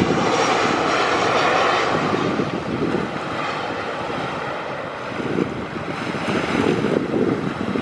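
A landing airliner's jet engines rushing past, loudest at first and fading after about two seconds, then wind buffeting the microphone in gusts.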